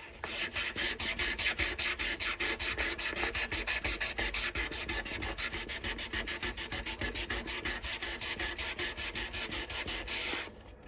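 400-grit sandpaper rubbed by hand along a steel knife blade in fast, even back-and-forth strokes, about five or six a second. It stops briefly near the end.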